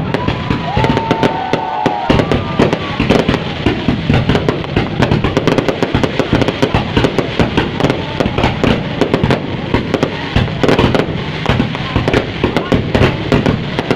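Fireworks going off in a dense, continuous barrage of rapid bangs and crackling pops. A few short wavering tones come through about one to two seconds in.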